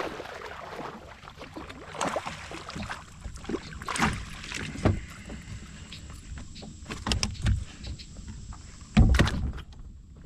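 Scattered knocks and clatter of gear being handled in a kayak, with one loud thump about nine seconds in.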